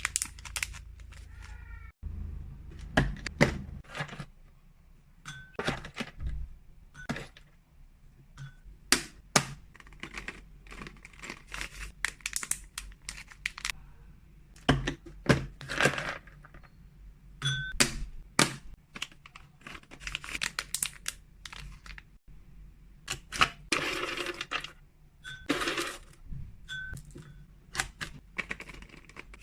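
Freeze-dried cat treats and plastic packaging being handled while treats are portioned into bags. Irregular sharp clicks and knocks mix with crinkling and rustling, and there are longer rustling stretches near the end.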